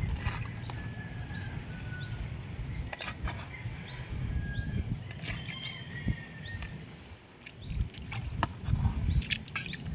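A bird's short, high, rising chirp repeated about once or twice a second, over a low rumble. A few sharp taps of a kitchen knife on a wooden chopping board come in between as peanut worms are cut.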